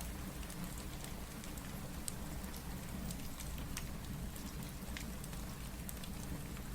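Steady rain mixed with a crackling wood fire: an even rush of rain over a low rumble, with scattered sharp crackles and ticks.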